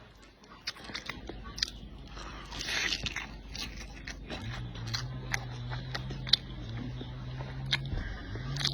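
A person chewing and biting food close to the microphone, with wet smacks and sharp mouth clicks throughout. A low steady hum runs under the chewing from about halfway through.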